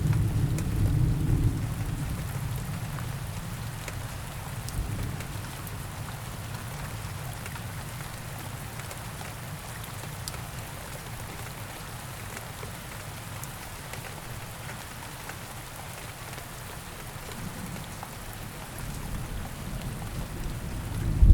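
Steady rain falling in a forest. A low rumble of thunder dies away over the first couple of seconds, and another rumble builds near the end.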